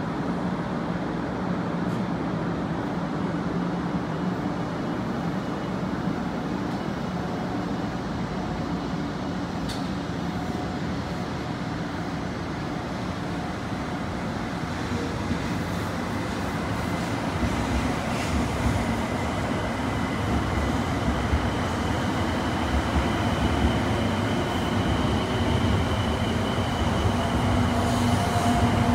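Rail Star 700-series Shinkansen train running: a steady rolling rumble that grows louder through the second half, with a faint high whine joining in.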